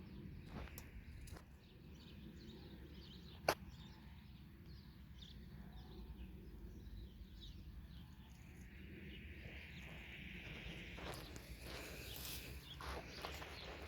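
Quiet outdoor background noise with one sharp click about three and a half seconds in, and faint scattered ticks and rustles toward the end.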